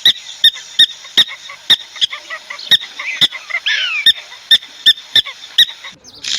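An animal's repeated short, sharp, high-pitched chirps, about two to three a second, with one longer falling call in the middle.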